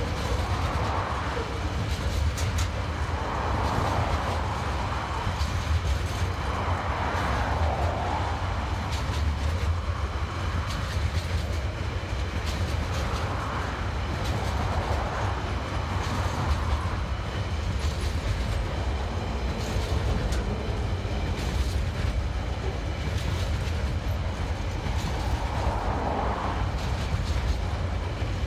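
Container wagons of a long freight train rolling past at steady speed: a continuous low rumble with light clicks of wheels over the rail joints, swelling every few seconds as wagons go by.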